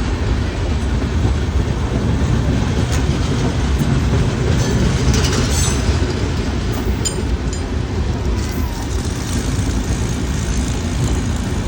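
Passenger train running along the tracks: a steady, loud rumble, with a few brief sharper metallic sounds about five to seven seconds in.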